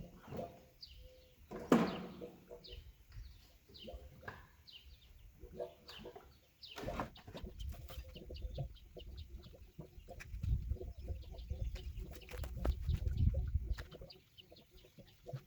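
Chickens clucking, with many short high chirps throughout. A sharp knock comes about two seconds in, and a low rumble runs for a few seconds in the second half.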